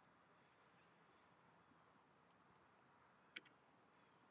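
Near silence with faint crickets: short high chirps about once a second over a steady high drone, and a single small click about three seconds in.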